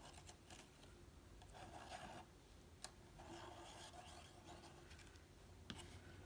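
Faint rubbing and rustling of cardstock pieces being handled and pressed together, with a couple of small clicks.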